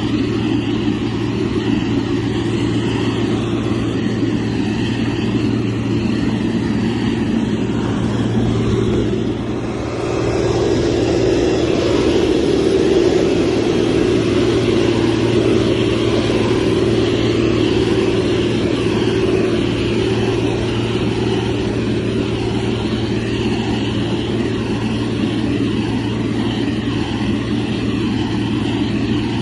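Heavy construction machine's diesel engine running steadily under load, with a constant low hum. It dips briefly about ten seconds in, then runs a little louder.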